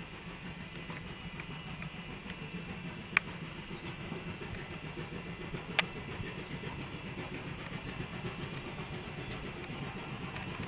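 Steady low vehicle rumble, with two sharp clicks, one about three seconds in and another about six seconds in.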